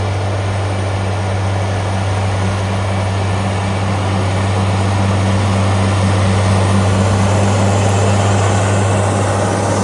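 An engine running steadily: a deep, even hum under a rushing noise, growing a little louder about halfway through.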